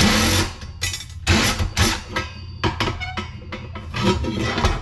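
Irregular clanking and rattling of metal light-fixture parts being handled and knocked about, with several sharp knocks and scrapes.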